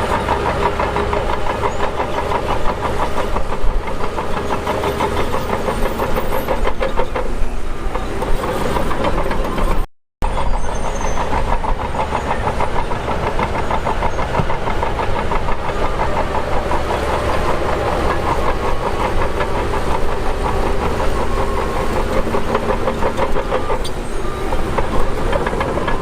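Heavy diesel earthmoving machinery running steadily under load, with a short break to silence about ten seconds in.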